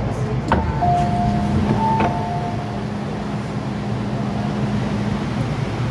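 MTR M-Train heard from inside, running with a steady low hum. About half a second in there is a sharp click, followed by a short two-note electronic tone that lasts about two seconds.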